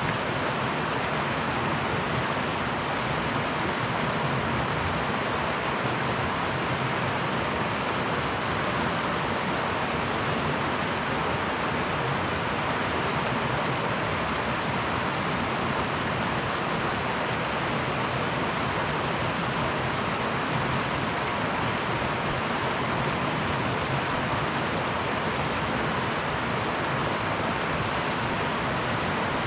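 Mountain river water rushing steadily, a constant even hiss of flowing water.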